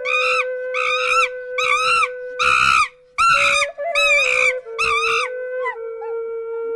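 An animal calling over and over in short, harsh, screaming cries, about seven of them, roughly one every second. Under the cries runs soft background music with long held notes on a flute-like instrument.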